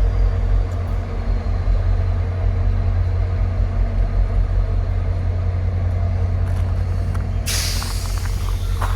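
Passenger train's diesel locomotive idling with a steady low rumble. About seven and a half seconds in, a loud burst of compressed air hisses for about a second and a half.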